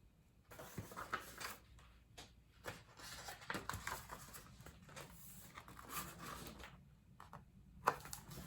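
Faint rustling and scattered light taps of a hardback picture book being handled and its pages turned.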